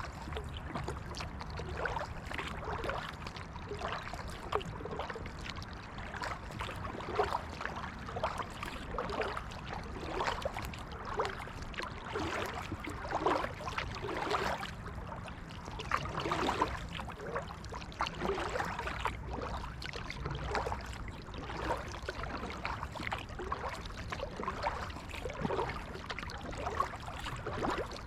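Kayak paddle strokes: water splashing and trickling off the paddle blades in short irregular bursts every second or so, over a steady low rumble.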